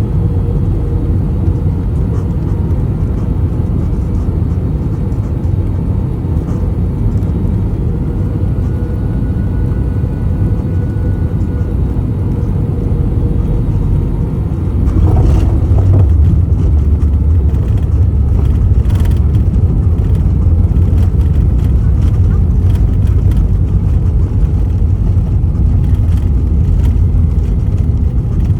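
Cabin noise inside an Airbus A321 with IAE V2533 engines on landing. A steady low drone of the engines and airflow is cut by a jolt about halfway through, followed by a louder rumble with rattling as the wheels touch down and roll along the runway.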